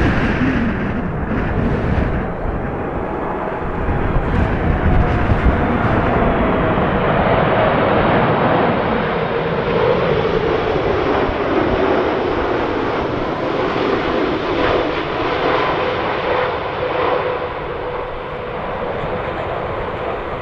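Jet airliner's engines passing by on landing approach: a loud broad roar with a whining tone that drops in pitch as the aircraft goes past. Gusty wind buffets the microphone in the first couple of seconds.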